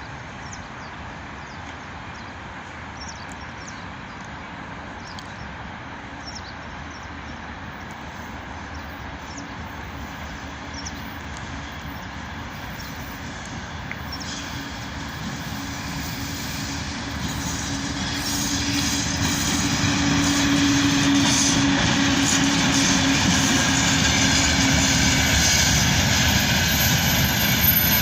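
VL10U electric locomotive hauling a freight train as it approaches, its rumble and wheel noise growing steadily louder over about twenty seconds and then holding loud, with a steady hum through the middle.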